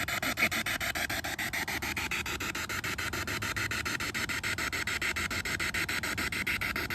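Spirit box radio scanner sweeping through stations: a continuous hiss of static chopped into short even pulses several times a second.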